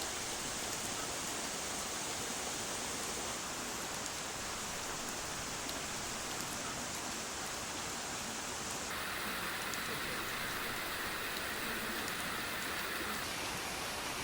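Steady tropical rain falling, an even hiss that shifts briefly in tone about nine seconds in.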